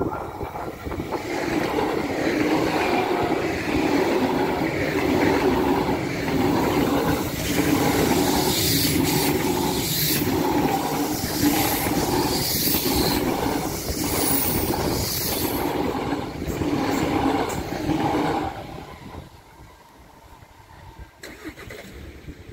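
Deutsche Bahn ICE high-speed electric train passing close at speed: a loud rush of wheels on rail with a rhythmic clatter as each car goes by and a hiss in the middle of the pass. It drops away sharply once the last car is past, near the end.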